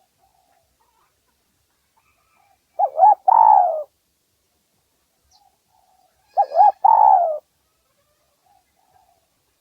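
Spotted dove calling twice, about three and a half seconds apart: each call is two short coos followed by a longer falling coo.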